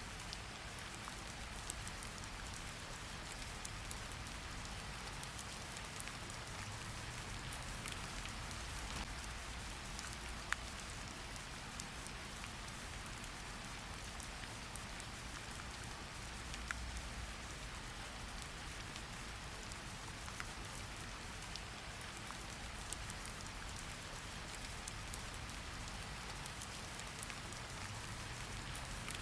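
Steady rain falling, a fine even hiss with scattered individual drops ticking sharply, over a soft low rumble.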